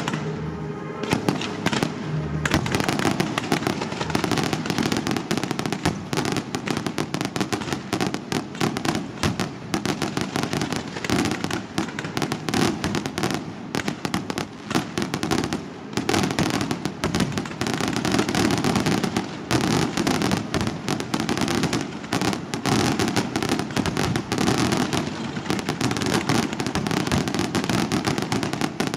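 Aerial fireworks display going off in a dense, continuous barrage of rapid bangs and crackling, with no pauses.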